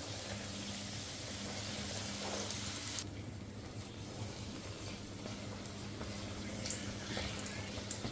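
Water running steadily, as from a tap into a sink, over a steady low hum; the hiss thins about three seconds in.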